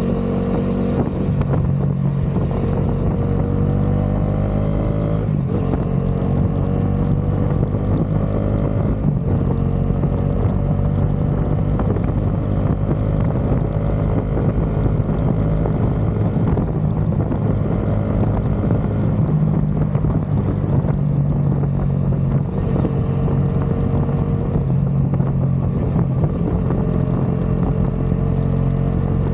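Bajaj Dominar 400's single-cylinder engine and exhaust running under way on the road, a steady low note whose pitch climbs slowly in several stretches, breaking off and resuming a few times in the first ten seconds.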